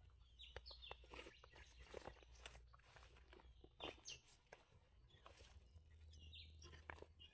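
Faint outdoor ambience: a bird repeats a short, downward-sliding chirp a few times, over scattered soft rustles and clicks and a low rumble of wind.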